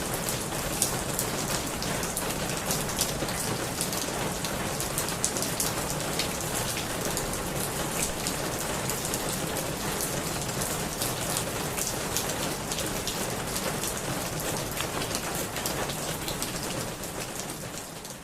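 Steady rain falling on a roof: a continuous hiss with many separate drop hits heard as sharp ticks. It fades out near the end.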